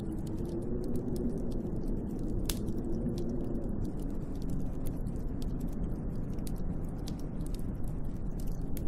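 Snowstorm wind blowing steadily against a cabin, a low rushing noise with a faint wavering howl. Sparse faint ticks are scattered through it.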